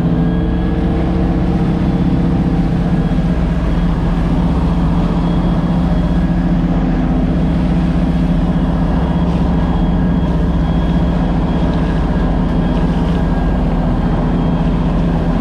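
Motorboat engine running steadily at towing speed, a constant low hum under a steady rushing noise.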